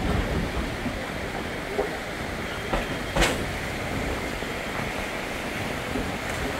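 Passenger train running along the track, heard from an open-air car: a steady rolling rush of noise with a few wheel clacks, the sharpest about three seconds in.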